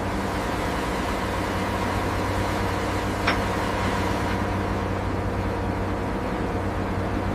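A large ship's engines running with a steady low drone that holds an even pitch. A single sharp click sounds about three seconds in.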